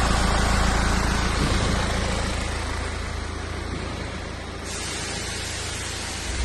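BMW N47D20C 2.0-litre four-cylinder turbodiesel running in a BMW X1 E84, growing quieter over the first few seconds and settling into a steady hum.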